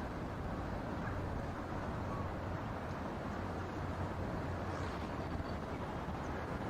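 Strong wind blowing against the microphone in a blizzard, a steady low noise with no let-up.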